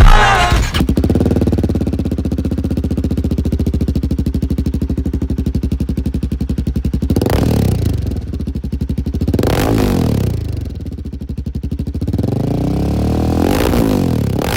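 Royal Enfield Himalayan 450's single-cylinder engine running through a GPR dual exhaust, idling with an even beat. It is blipped three times, each rev rising and dropping back to idle.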